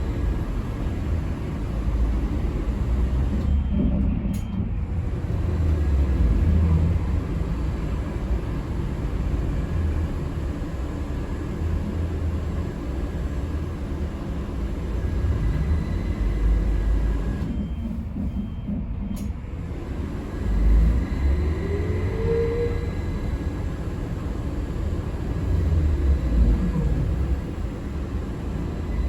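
Interior ride noise of a moving city transit vehicle: a steady low rumble, with a short rising whine about two-thirds of the way through and another starting at the very end.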